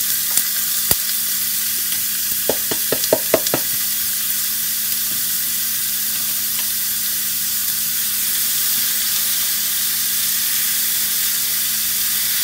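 Diced bell peppers and onions sizzling in hot oil in a frying pan, a steady hiss. A quick run of about six light clacks comes a few seconds in.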